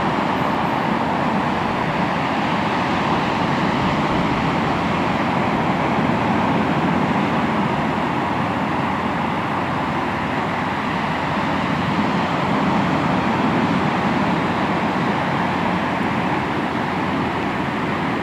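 Sea waves washing onto the shore in a continuous rush of surf that swells and eases slowly.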